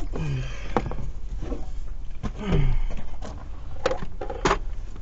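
Hand work on an engine: a few sharp clicks and knocks of hands and tools on hoses, clips and parts, with two short falling grunts from the person working.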